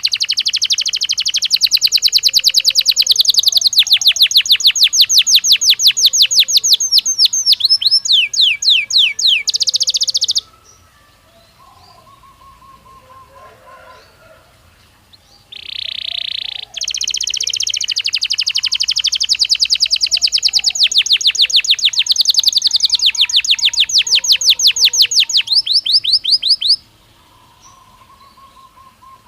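Belgian canary singing two long phrases of rapid, high trilled notes, each about ten seconds, the notes spacing out toward the end of each phrase. Between the phrases a few seconds of fainter, lower chirping.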